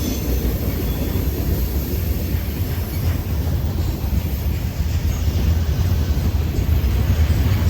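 Norfolk Southern freight train rolling past at close range, a steady deep rumble of wheels and cars on the rails.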